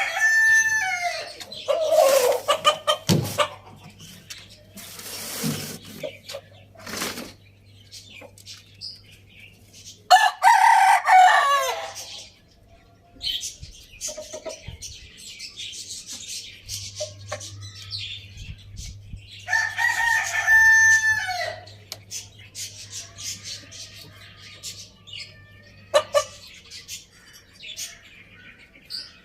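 Roosters crowing, three long crows roughly ten seconds apart, each holding a pitch and then dropping at the end, with clucking and short scratchy sounds between the crows.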